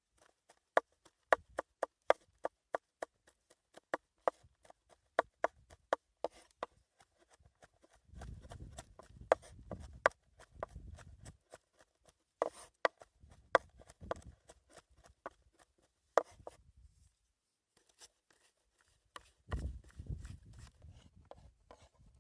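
Knife chopping on a cutting board in quick, even strokes, about three a second, stopping after about six seconds. After that come scattered knocks and low rubbing, handling sounds.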